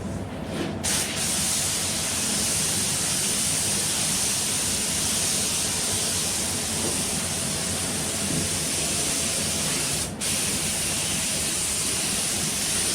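Mini HVLP spray gun hissing steadily as it sprays paint, with the trigger only partly pulled to dust on a light coat. It starts with a couple of short puffs and stops briefly about ten seconds in.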